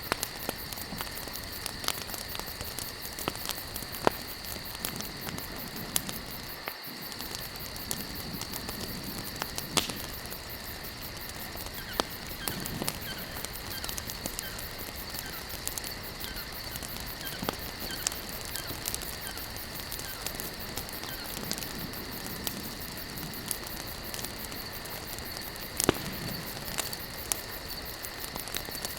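Wood campfire burning, crackling with frequent small pops and a few louder snaps, over a steady high-pitched hum.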